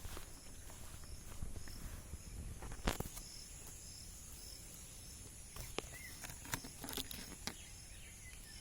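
Rural outdoor ambience: a steady high insect drone with an insect chirp repeating about twice a second. Scattered footsteps and clicks come through, with one louder tap about three seconds in.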